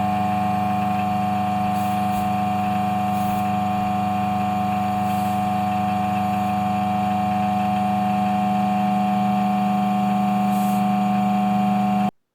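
Steady electrical hum at a constant pitch from the running mains-powered grinder and high-voltage ion-generator setup, which stops abruptly near the end.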